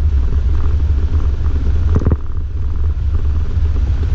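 Heavy low rumble of a 4x4 driving through snow about 8 inches deep, heard from inside the cabin, with one brief sharp knock about two seconds in.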